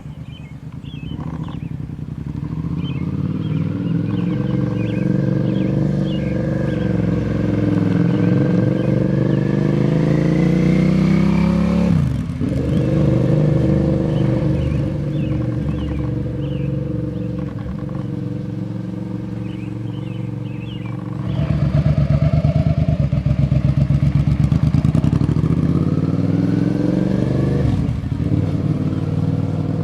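Suzuki SV650 V-twin motorcycle engine running through its exhaust under acceleration. Its pitch climbs for about ten seconds and then drops sharply at an upshift, holds steady, then climbs again and drops once more near the end.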